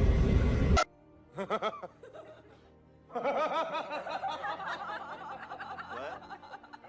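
A loud rumble cuts off abruptly less than a second in. Then a person laughs: a short burst, then a longer run of giggling and snickering.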